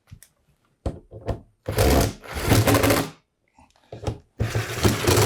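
Power driver running screws into a plastic radio case: two runs of a second or more each, one after the other, with a few short clicks before the first as the bit is seated.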